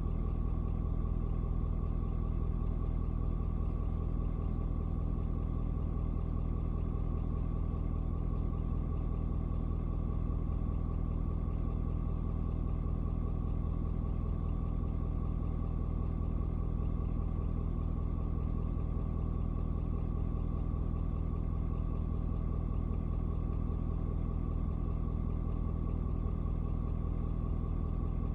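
Ford Super Duty's 6.7-litre Power Stroke V8 turbo diesel idling steadily, still warming up after a cold start.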